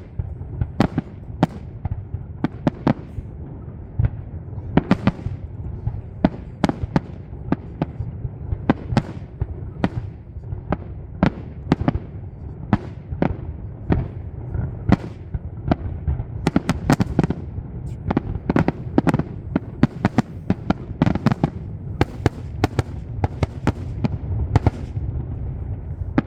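Aerial fireworks display: a rapid run of shell bursts and sharp cracks, several a second and thickening later on, over a continuous low rumble of launches and booms.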